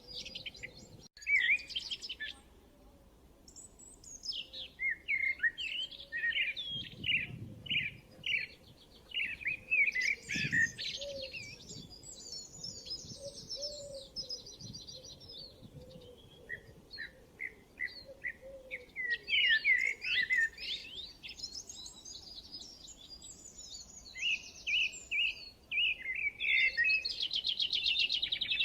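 Birds chirping and singing: phrases of quick, high chirps and rapid trills, with brief pauses between phrases.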